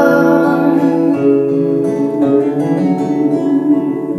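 Recorded song with acoustic guitar playing sustained chords and no voice, the chords changing every second or so.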